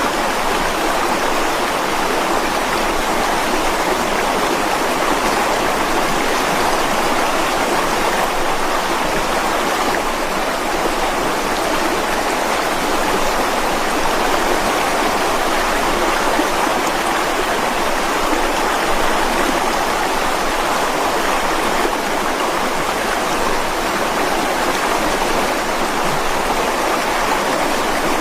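Mountain stream rushing and splashing over rocks in a steady, unbroken wash of water noise.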